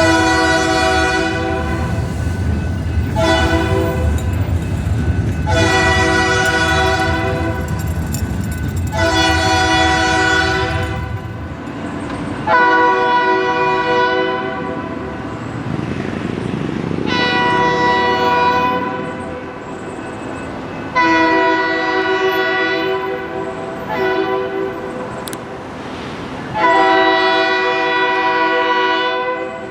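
Diesel freight locomotive horn sounding about eight long blasts in a row, with one short toot after the seventh, as the BNSF train runs down the street. Under the first half of the blasts, the locomotive engines rumble heavily; the rumble then fades as the locomotives pass.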